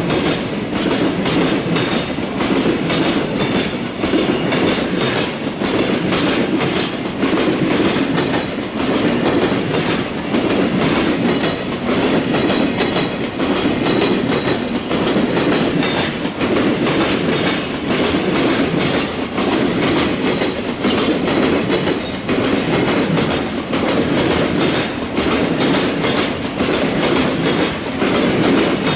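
Freight train's loaded container flat wagons passing at speed, their wheels clattering steadily over the rail joints in a regular clickety-clack.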